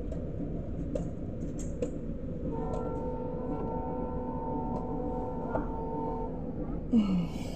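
Passenger train coaches rolling past a level crossing, a steady low rumble of wheels on the track. From about two and a half seconds in, a horn sounds a steady chord of several tones for nearly four seconds. A short, loud burst of noise comes near the end.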